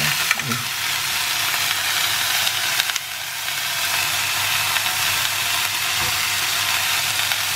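Chunks of ash gourd and onion sizzling steadily as they sauté in a little oil in an aluminium pressure-cooker pan, with a few light knocks of a wooden spatula.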